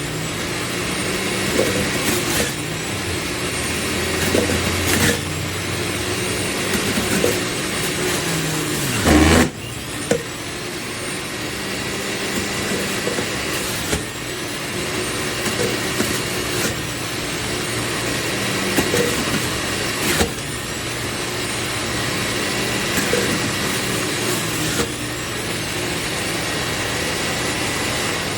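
JUILIST 400 W centrifugal juicer motor running steadily with a hum and a thin whine. Short clicks and knocks recur throughout, with a heavier thump about nine seconds in, after which the sound briefly drops.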